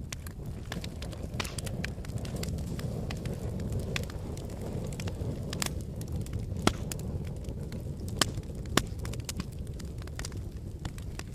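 Wood fire burning in a fireplace: a steady low rumble of flames with frequent sharp crackles, and three louder pops in the second half.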